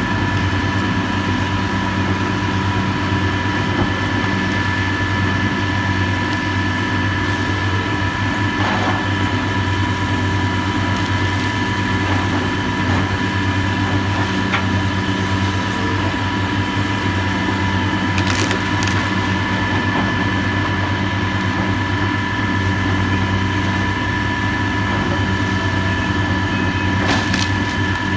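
Heavy demolition machine's engine running steadily, with a few sharp cracks of breaking debris, the loudest about two-thirds of the way through and near the end.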